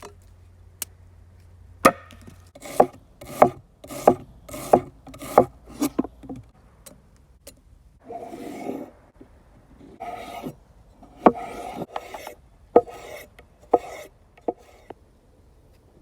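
A run of sharp knocks about one and a half a second, with scraping between them, then rustling and a few more separate knocks near the end.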